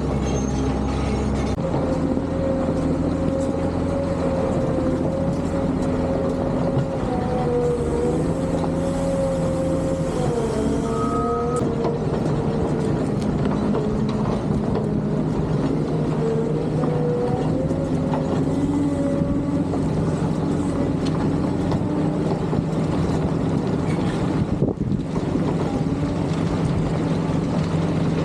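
Cat D7 bulldozer's diesel engine running steadily under work, its pitch rising and falling a little as the load changes.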